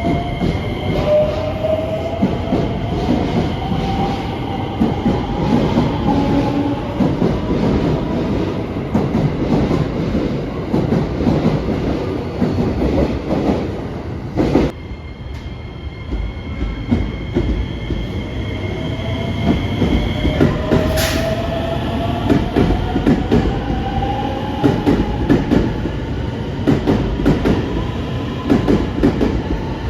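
Electric train running on the rails, its wheels clicking over rail joints, with a rising motor whine as it picks up speed, heard twice. The sound breaks off abruptly about halfway through and resumes.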